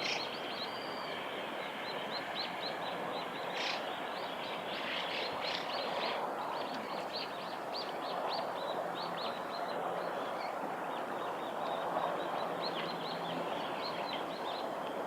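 A small river running steadily, with many short, high bird chirps over it throughout.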